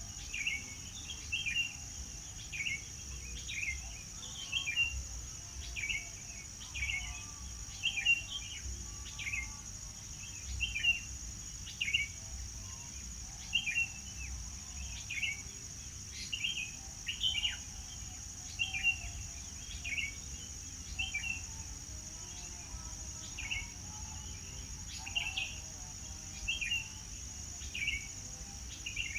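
A songbird repeating short chirps, a little faster than once a second, over a steady high-pitched insect drone.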